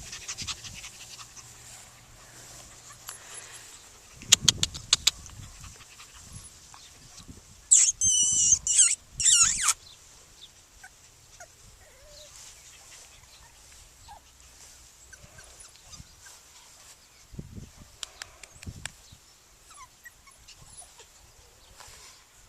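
Yorkiepoo puppies at play: a short cluster of loud, high-pitched wavering cries about eight to ten seconds in, with a quick run of sharp clicks a few seconds before and faint scuffling and ticking in between.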